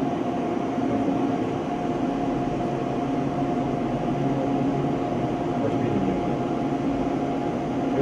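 Military jet engine running steadily on a test cell stand after start-up, a constant hum with a steady whine that neither rises nor falls.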